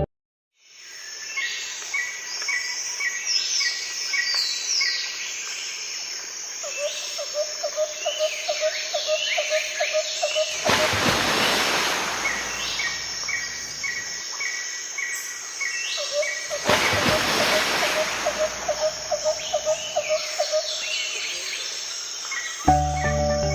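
Forest ambience: a steady high insect drone under many bird calls, with repeated short chirps and a fast low trill heard twice. Two louder rushes of noise, each about two seconds long, come in about ten seconds in and again near the seventeenth second.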